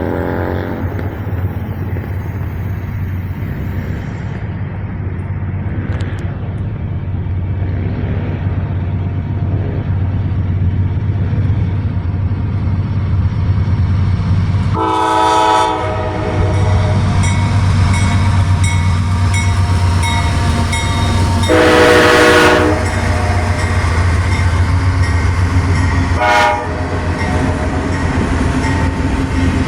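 Norfolk Southern freight locomotive 4648 leading a manifest train, its diesel rumbling steadily, sounding its third-generation Nathan K5LA five-chime horn. A horn blast fades out at the start; then, from about halfway through, it sounds a grade-crossing sequence: a long blast, a longer one, a short toot, and a final long blast starting at the very end.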